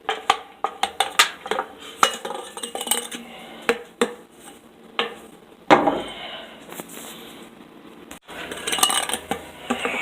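Sharp clinks and taps of hard objects knocking together, many in quick succession at first, then sparser, with a louder knock about six seconds in.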